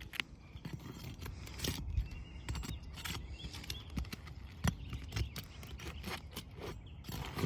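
Flat bar prying under old asphalt shingles to pull roofing nails: irregular taps, knocks and scrapes of metal against nail and shingle.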